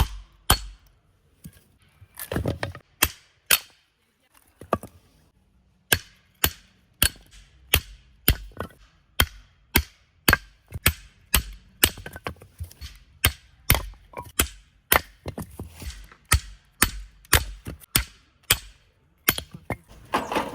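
Hatchet chopping firewood: a few sharp strikes into wood, a short pause, then a steady run of about two strikes a second.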